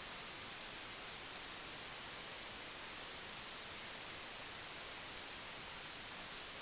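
A steady, even hiss with no change and no distinct events.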